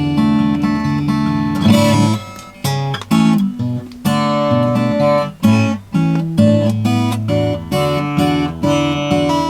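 Acoustic guitar strumming chords, with the chord changing every second or so.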